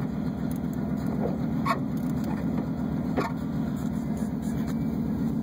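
Camaro Z28's V8 engine idling steadily while still cold from a cold start, with a couple of light clicks about halfway through.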